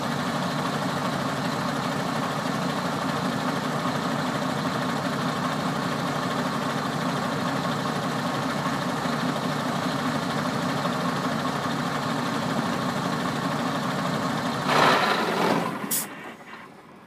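MAN TGX 22.440 tractor unit's six-cylinder diesel engine idling steadily. A brief louder noise comes near the end, then the sound fades out.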